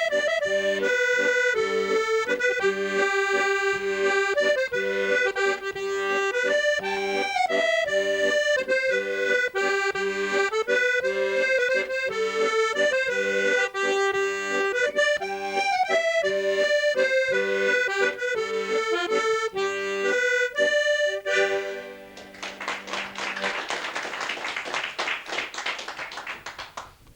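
Accordion playing a lively Irish traditional tune, a quick melody over steady bass chords, which finishes about 21 seconds in. Audience applause follows for about five seconds and dies away at the end.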